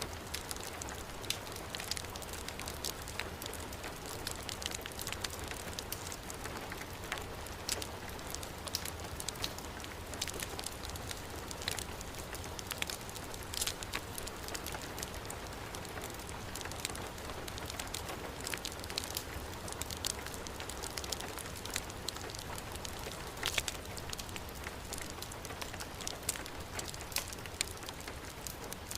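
Steady heavy rain mixed with a crackling wood fire, with frequent small, sharp pops and crackles.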